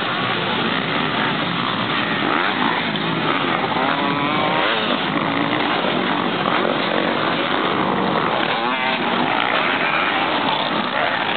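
Motocross bike engines running hard, their pitch rising and falling repeatedly as the throttle is worked.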